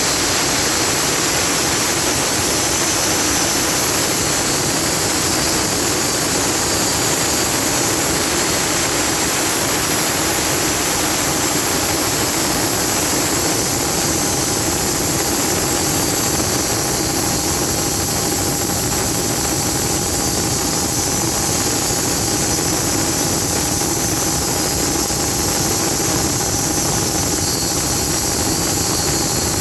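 Fully automatic sawmill running with a loud, steady mechanical noise. A faint steady whine comes in about halfway through.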